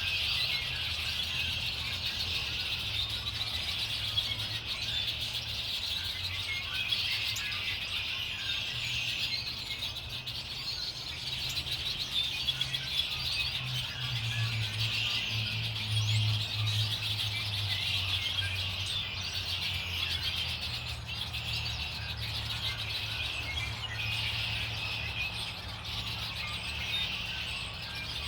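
Many small birds chirping and twittering together in a dense, continuous chorus, with a low steady hum underneath that swells around the middle.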